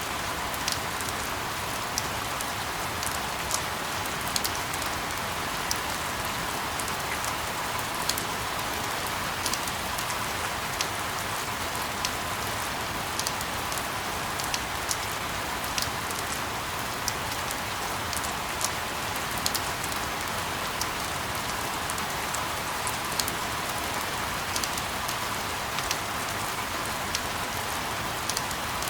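Steady rain: an even hiss with scattered louder drops ticking a few times a second.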